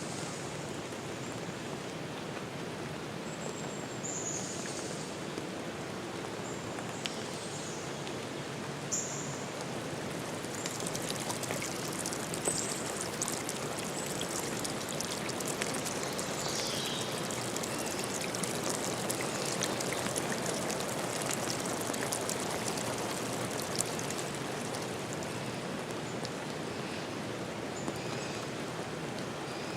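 Steady hiss of water in a forest, with a light patter of drops thickest through the middle and a few brief high chirps.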